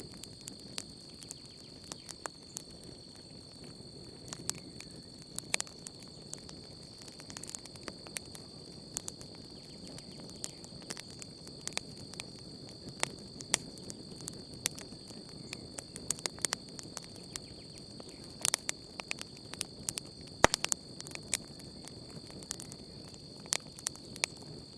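Campfire crackling: irregular sharp pops and snaps over a soft, steady low rush of burning wood. A steady high-pitched insect chorus runs underneath.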